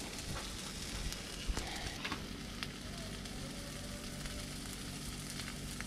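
Chicken pieces sizzling as they fry in a hot pan, a steady sizzle with a few small pops.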